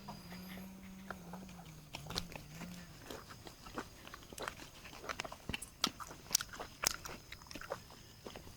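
People chewing and biting charred grilled pork close to the microphone, with irregular crisp clicks and crunches. A low steady hum wavers and stops about three seconds in.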